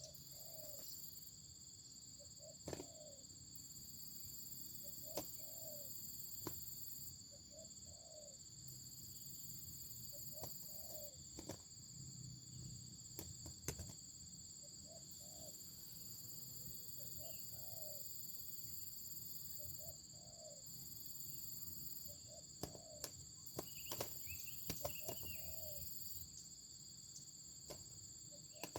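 A dove cooing over and over, a short low two-note coo roughly every two seconds, over steady high insect trilling. A few sharp clicks come in between.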